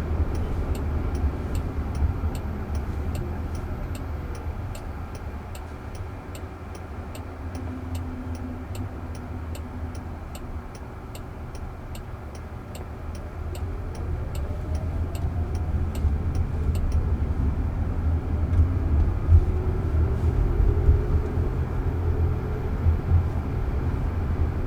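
Cabin noise of a Waymo self-driving car on the move: a low road and tyre rumble that eases in the middle and builds again toward the end. A turn signal ticks steadily, about twice a second, through the first two-thirds.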